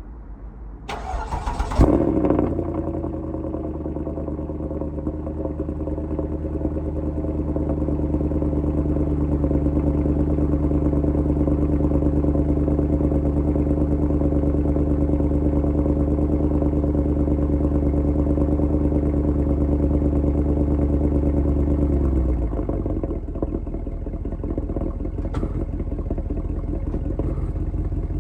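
Mercedes-Benz E63 AMG estate's 6.2-litre V8 cold start: a brief crank, then it catches with a loud flare about two seconds in. It settles into a steady high cold idle, unrevved, which drops to a lower idle about 22 seconds in.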